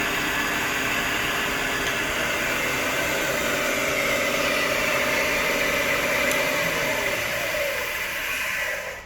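Bridgeport EZ Trak II CNC mill's axis drive traversing the table toward its home position: a steady motor whine with hiss that cuts off abruptly near the end as the axis reaches home.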